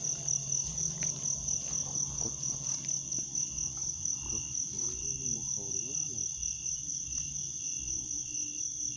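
Insect chorus of crickets: a steady, high, finely pulsing trill, with a low steady hum beneath.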